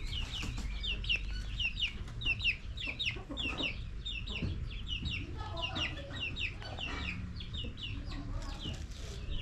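Chickens calling: a rapid run of short, high, falling cheeps, several a second.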